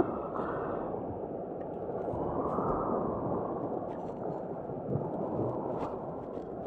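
Sea waves washing on the shore: a steady rushing noise that swells and eases, with a few faint clicks.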